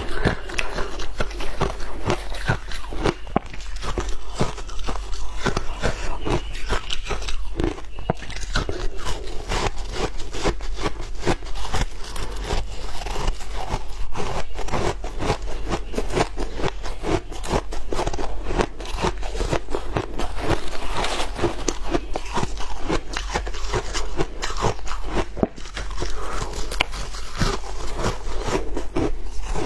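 Close-up crunching and chewing of shaved ice, with a constant crackle of many small crunches. A steady low hum lies underneath.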